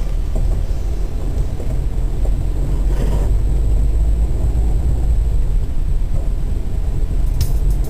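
Steady low rumble of a vehicle running, with sharp clicks starting near the end.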